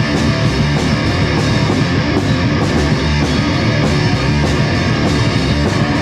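Live rock band playing an instrumental passage with guitar and drums, no singing.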